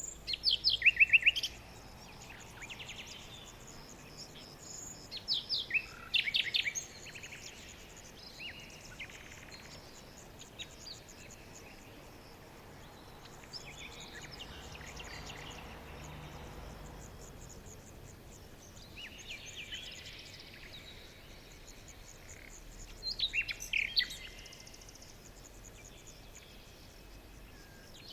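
Small songbirds chirping and trilling in short bursts of rapid high notes, loudest about a second in and again twice later, with quieter scattered chirps in between over a faint steady background hiss.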